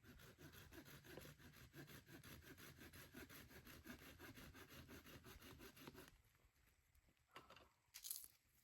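Rapid, even rhythmic scraping at about five strokes a second, stopping about six seconds in; a brief sharp high sound follows near the end.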